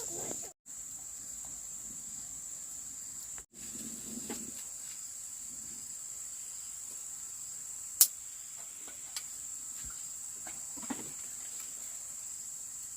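Steady, high-pitched insect drone, like crickets or cicadas, with one sharp click about eight seconds in.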